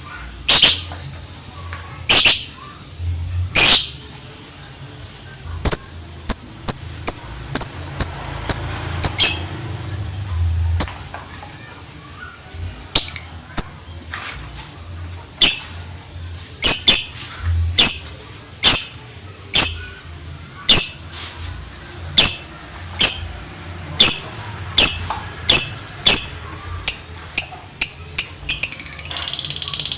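Lovebird singing in the 'ngetik' (typing) style: a long string of short, sharp, high chirps, often in quick runs of repeats, with a fast rattling flurry near the end.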